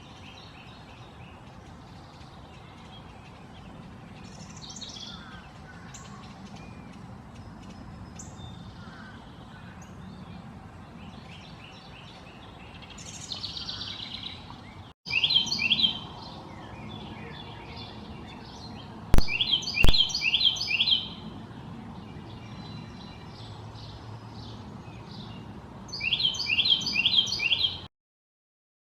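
Wild songbirds singing, in two joined recordings. First come soft scattered calls over a faint low hum. Then, after a sudden cut, a bird sings three loud bouts of quick repeated notes, with two sharp clicks during the middle bout; the sound stops just before the end.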